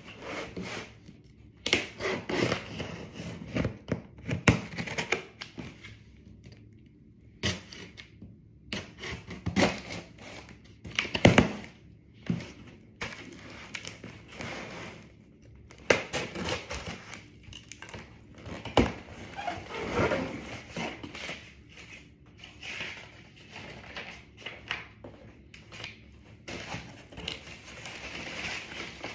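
A shipping box and its packing being opened and handled by hand: irregular rustling, tearing, crinkling and light knocks, with a sharper knock about eleven seconds in.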